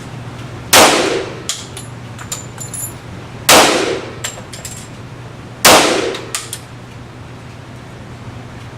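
Three shots from a semi-automatic pistol, about two to three seconds apart, each echoing in an indoor range and followed by a few smaller clicks. A steady low ventilation hum runs underneath.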